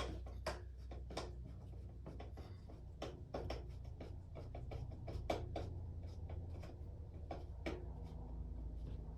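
Irregular light clicks, taps and scratches, several a second, over a low steady hum.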